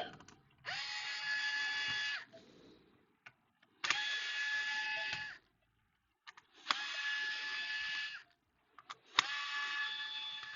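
A small electric hand tool's motor whining at a steady pitch in four short bursts of about a second and a half each, some starting with a click.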